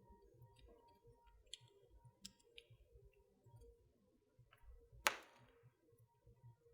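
Wood fire in a fireplace crackling softly: scattered small ticks, then one loud sharp pop about five seconds in.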